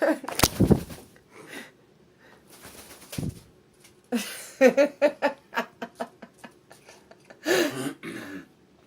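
A person laughing in a quick run of short bursts about four seconds in, with another brief laugh near the end, and a few handling knocks at the start.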